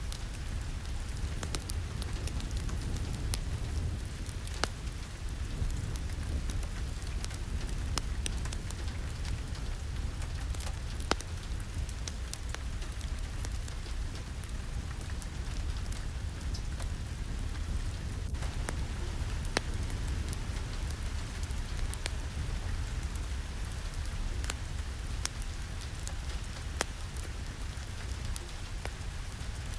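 Steady heavy rain with a low rumble underneath, and frequent sharp clicks and taps scattered through it.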